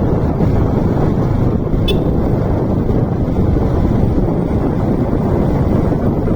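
Steady rush of wind buffeting the microphone, mixed with motorcycle and road noise while riding. A brief faint high chirp about two seconds in.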